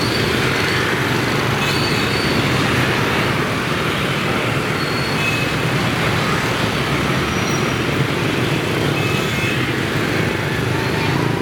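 Dense rush-hour traffic of many motorbikes and scooters passing, a steady, loud mass of small engines, with a few brief high tones here and there.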